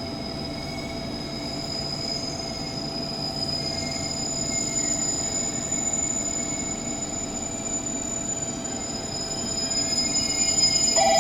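JR Kyushu 813 series electric train standing at the platform, its electrical equipment giving off a steady whine of several high tones over a low hum. Right at the end a louder, warbling bell starts ringing.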